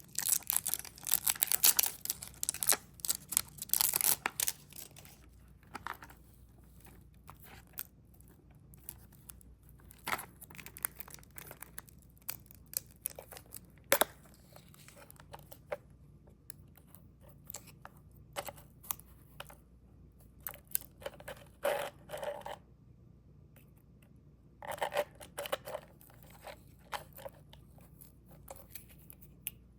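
Candy packaging being torn open and crinkled by hand: a busy stretch of tearing and crinkling at the start, then scattered sharp clicks and short rustles as sweets are unwrapped and handled.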